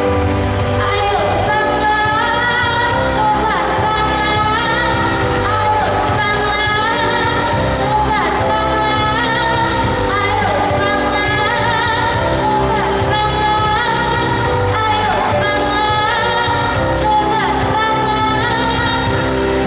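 A young girl singing an Indonesian pop song live over instrumental accompaniment with a steady bass line.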